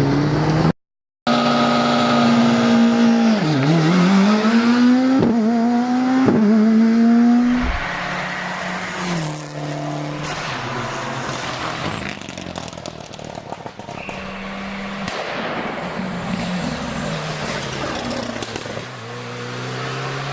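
Rally car engine revving hard and accelerating through the gears, its pitch climbing and then dropping sharply at each gear change, with a brief cut to silence about a second in. After about eight seconds it is quieter, the engine note rising and falling at lower revs.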